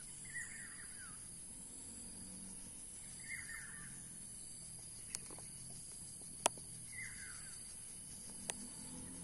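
A bird calling three times, a few seconds apart, each call short and falling in pitch, over a steady high hiss. Three sharp clicks come in the second half, the middle one the loudest sound.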